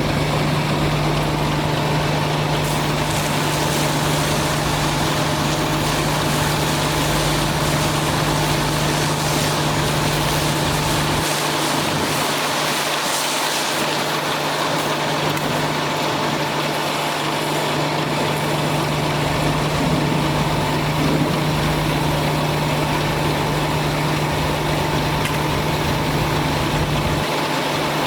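Cummins ISC diesel engine of a 2010 Freightliner M2 water truck running steadily, a constant low hum under an even hiss.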